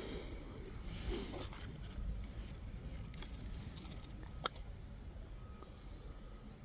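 Insects chirring steadily in the background, with a soft rustle about a second in and a single sharp click about four and a half seconds in.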